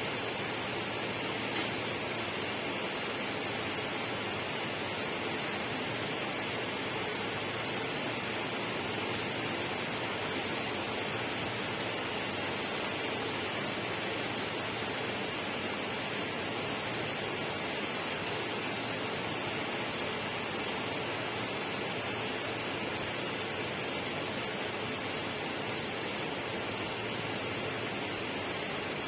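Steady, unbroken rushing noise from a natural ambience recording, even throughout with no distinct events.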